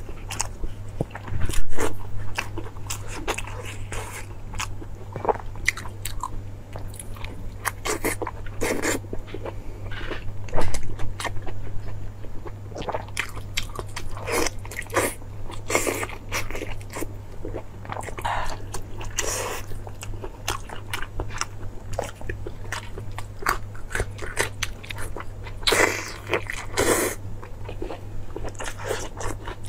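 Mukbang eating sounds of braised pork intestine being bitten and chewed: many quick mouth clicks and smacks, with louder bites about a second and a half in and again about ten seconds in, over a steady low hum.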